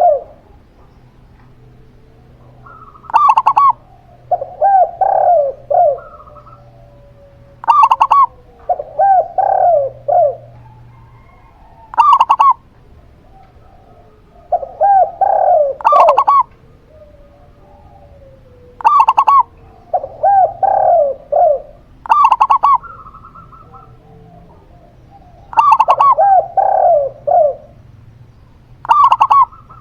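Zebra dove (perkutut) and spotted dove (tekukur) cooing. Short coo phrases repeat every few seconds: a single higher note is often followed by a run of three or four lower coos.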